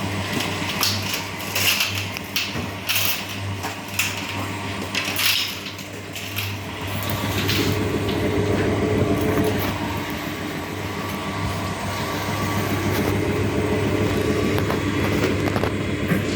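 Whirlpool washing machine in its spin cycle: a steady low motor-and-drum hum, rough with irregular knocks and rattles for the first several seconds, then settling into a smoother, slightly louder drone.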